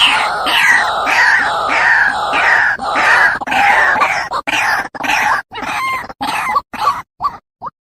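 White-breasted waterhen (ruak-ruak) calling: a loud, rapid series of harsh croaking notes, about two a second, that breaks into shorter, choppier notes in the second half and stops briefly near the end.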